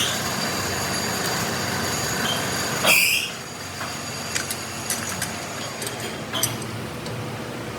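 Metalworking machinery running with a steady high whine, broken by short metal-on-metal screeches: one at the start, a louder one about three seconds in and another near six and a half seconds.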